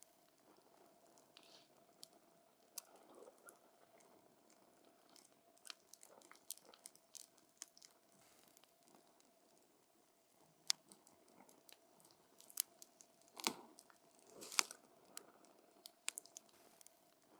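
Wood campfire crackling, with irregular sharp pops and snaps and two louder pops about three-quarters of the way through.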